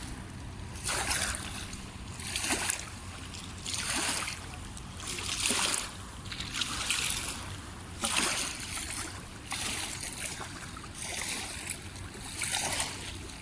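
Small waves lapping and gurgling at the water's edge. A wash of water swells and fades about every second and a half, over a low steady rumble.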